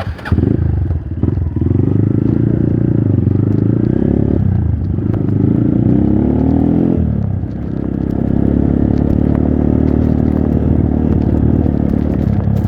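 Trail motorcycle engine running under throttle, its pitch rising as it revs from about four and a half seconds in, then dropping back about seven seconds in and running steadily again.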